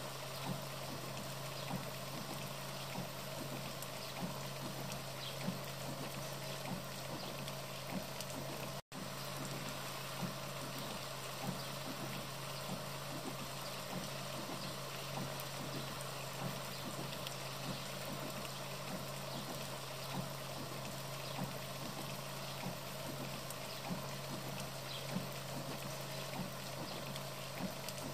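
Steady rain ambience with scattered small drips over a constant low hum; the sound drops out for an instant about nine seconds in.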